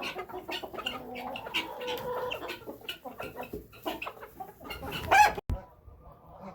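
A flock of chickens clucking and calling close by, with one loud squawk about five seconds in; the sound then cuts off abruptly and only quieter clucking follows.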